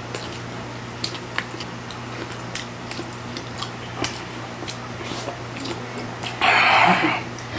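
Close-miked eating sounds: wet chewing, lip smacks and scattered small clicks as Hungarian sausage and Samyang cheese ramen noodles are eaten, with a louder slurp near the end.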